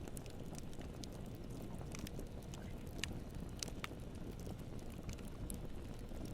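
Campfire burning: a steady low rumble of flame with scattered sharp crackles and pops, a few stronger pops about halfway through.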